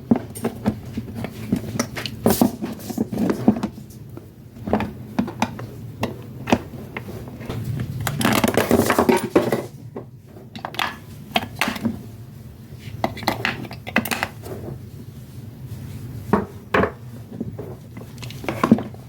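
Hard plastic clicking, tapping and clattering as a Baby Alive doll and its small parts are handled, with a denser rattle about halfway through, over a steady low hum.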